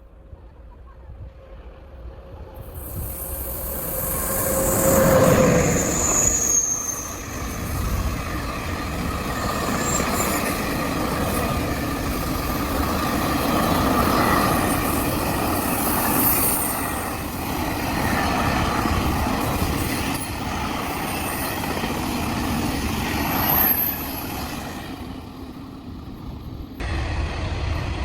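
A train passing: the noise builds as it approaches, then holds as a long steady rumble and clatter with a few brief high squeals. It fades out before an abrupt cut near the end.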